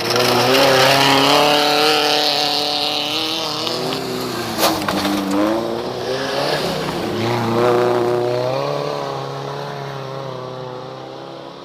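Small-displacement race car engines running at high revs. The pitch falls about halfway through as they slow for a corner and then climbs again under acceleration. The sound fades near the end, and there is one sharp click about halfway.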